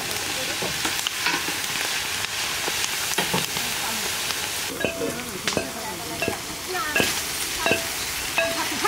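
Green chilies and small river shrimp sizzling in hot oil in a large steel pan, with a long-handled metal spatula scraping the pan in short strokes, more often from about five seconds in.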